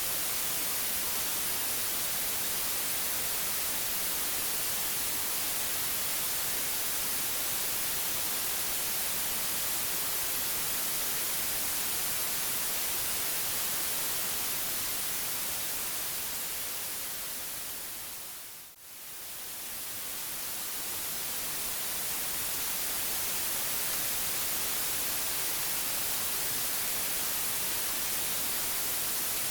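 Steady white-noise hiss, brightest in the highs. About two-thirds of the way through it fades down over a few seconds to a brief dip and then swells back to full level.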